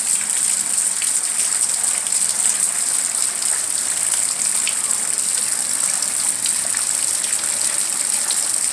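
Rain falling steadily: a dense, even hiss with many small drop ticks.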